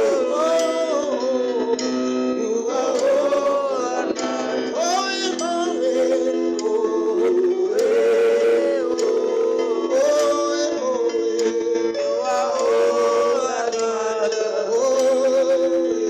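A worship song being sung to musical accompaniment, in long held notes that glide between pitches.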